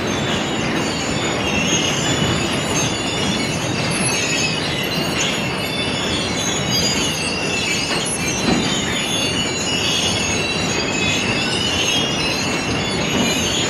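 Train running on rails with a steady rumble and a high, wavering squeal of the wheels throughout.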